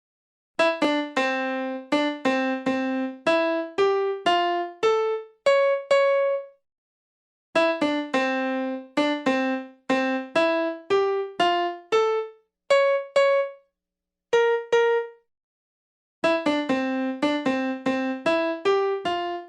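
Piano-like keyboard playing a short, quick tune of separate plucked-sounding notes. The same run of notes is played twice with a short pause between, then two single held notes, then the run starts again.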